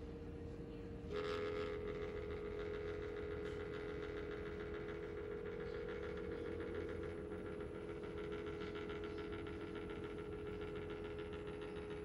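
Iris Ohyama PCF-SDC15T air circulator fan running with a steady hum. About a second in, its horizontal oscillation mechanism starts making an abnormal noise, a rapid rattling whine, the sign of a fault in the swivel drive.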